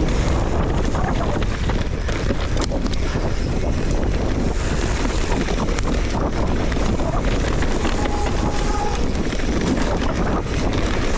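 Steady wind rushing and buffeting on the microphone while riding a trail, with constant rattling and knocks from the ride.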